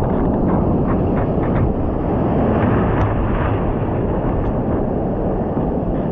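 Loud, muffled rushing of surf and wind buffeting the microphone of a camera out in the waves.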